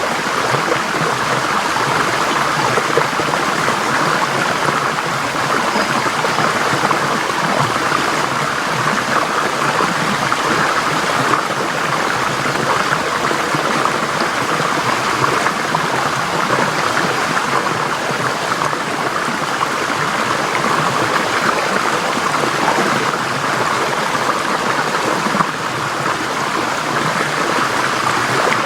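Forest stream flowing steadily over rocks, an even rushing and babbling of water.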